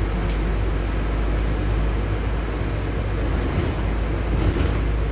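Interior noise of a LiAZ-6213.65 articulated city bus: a steady low engine hum under even cabin and road noise, with a couple of faint ticks near the end.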